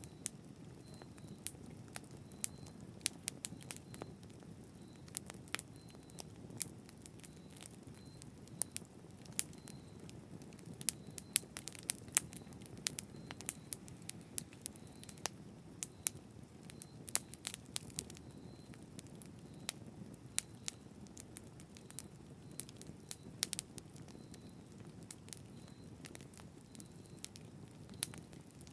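Wood campfire burning: irregular sharp crackles and pops from the burning wood over a steady low rush of the flames.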